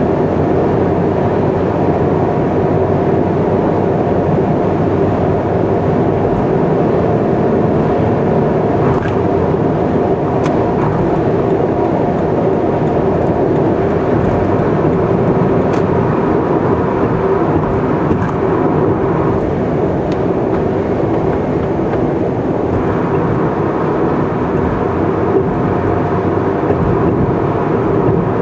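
Car on the move: a steady hum of engine and tyre noise that holds an even level throughout.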